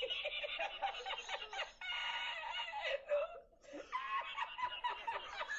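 A man laughing uncontrollably in high-pitched, squealing fits, breaking off briefly about three and a half seconds in before starting up again.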